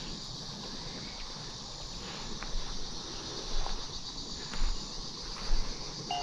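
Steady outdoor ambience dominated by a high insect chorus, with a few soft low thumps in the second half.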